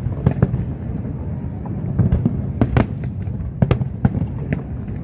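Aerial fireworks display: a rapid, irregular string of sharp cracks and bangs over a continuous low rumble of distant booms.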